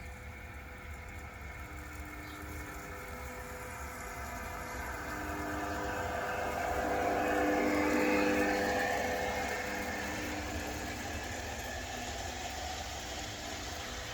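G-scale model of the NS 1844 locomotive running past with its onboard sound system playing running sounds over the rumble of wheels on the track. It grows louder to a peak about eight seconds in and then fades as it moves away.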